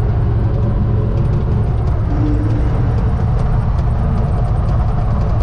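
UTB Universal 650 tractor's diesel engine running steadily under way, a continuous low hum with no change in speed.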